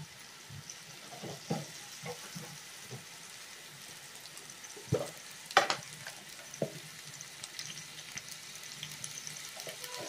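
Chopped tomatoes frying in a little oil in a pan: a soft, steady sizzle with faint crackling, and a few sharper clicks near the middle.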